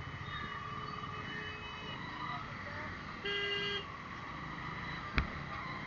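Road traffic rumble, with a vehicle horn tooting once for about half a second midway. A single sharp click sounds near the end.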